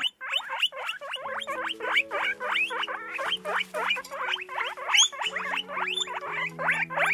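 Guinea pig squeaking in a rapid, continuous run of short high squeaks, about four a second, with quieter low steady tones held underneath.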